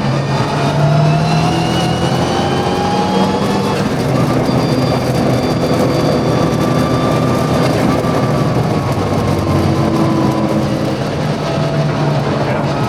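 Mitsubishi Lancer Evolution VI Group A rally car's turbocharged four-cylinder engine under hard acceleration on track. The pitch climbs for the first few seconds, changes up about four seconds in, drops away around ten seconds in, and climbs again near the end.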